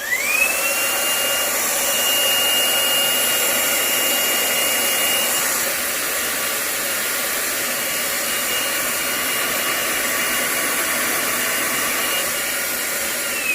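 Hoover Blade Max cordless stick vacuum running on maximum power mode: its brushless digital motor spins up with a quickly rising whine, then holds a steady high whine over a loud rush of air. It winds down at the very end.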